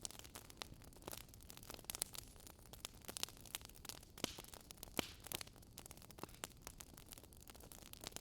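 Fireplace crackling: irregular sharp pops and snaps, several a second, over a soft low hiss of burning, with one louder pop about five seconds in.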